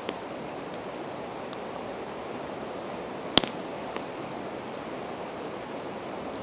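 Campfire of split evergreen wood crackling, with one loud sharp pop about three and a half seconds in and a few smaller snaps, over a steady rush of the nearby river.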